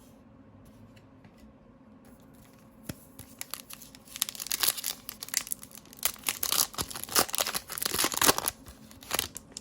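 A trading card pack's wrapper being torn open and crinkled by hand, starting about three seconds in: a dense run of crackling and tearing that stops just before the end.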